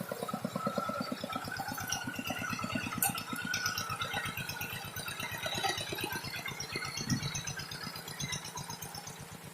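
Tractor engine running with a steady, rapid putter and a metallic rattle over it.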